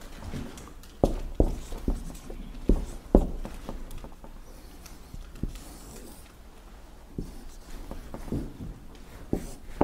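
Dry-erase marker writing and drawing on a whiteboard: a string of sharp taps as the tip strikes the board, with faint scratchy strokes in between.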